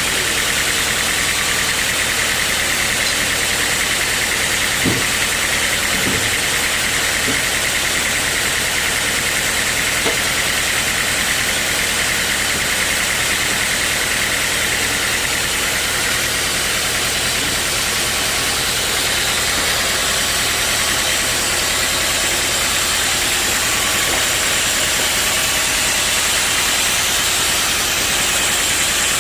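Sawmill machinery running steadily: a constant mechanical drone with a hiss, with a few faint brief knocks in the first ten seconds.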